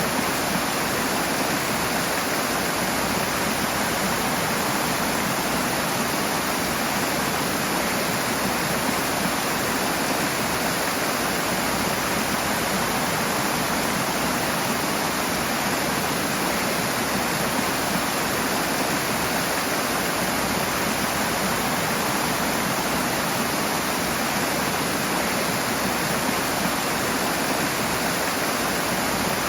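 Rushing water: a steady, even roar of a fast stream or small waterfall, with no let-up or change.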